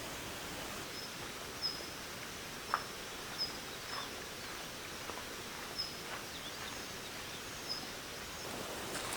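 Steady outdoor forest ambience of wind and light rain, with a bird repeating short high chirps about once a second and a few soft taps.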